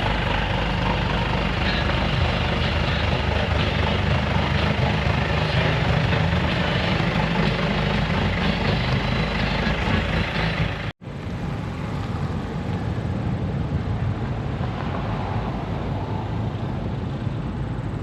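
Car engines running with a low rumble. It cuts off abruptly about eleven seconds in and comes back somewhat quieter.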